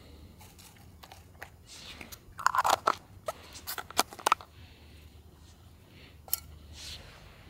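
Crunching and crackling in two short bursts, about two and a half and four seconds in, then a single sharp click.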